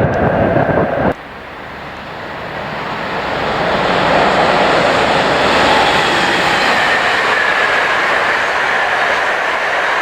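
Train passing on the rails, a steady rushing of wheels that swells over the first few seconds and then holds. About a second in, a different, louder sound with a steady two-note whine cuts off abruptly.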